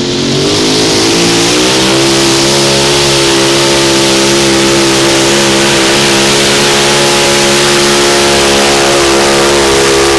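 Modified mini pulling tractor's 575-cubic-inch engine at full throttle pulling the sled. The revs climb over the first second or two, then hold a steady, loud high-revving note.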